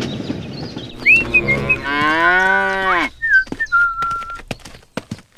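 A drawn-out, lowing animal-like call, about a second long, whose pitch drops at its end. Short whistle-like tones come just before it and a held one just after.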